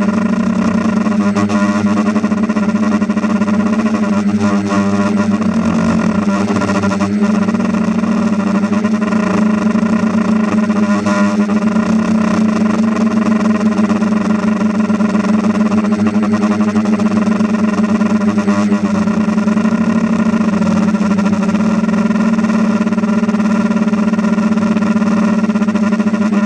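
A machine running steadily with a constant hum, its pitch dipping slightly about six seconds in.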